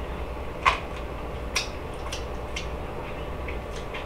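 Eating a chicken wing: short wet smacks and crunches of chewing, with fingers at the mouth. The two loudest come about half a second and a second and a half in, over a steady low hum.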